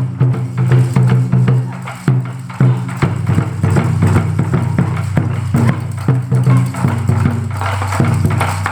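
Japanese taiko drums played by an ensemble: a fast run of many sharp strikes over a sustained low booming resonance.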